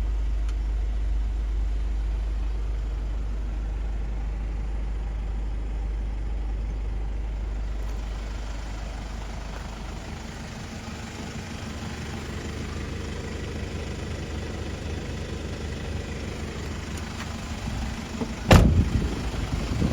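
Mercedes-Benz Sprinter 316 CDI's four-cylinder diesel engine running. A heavy low rumble fills the first half, then it settles to an even idle hum. A single sharp bang comes near the end.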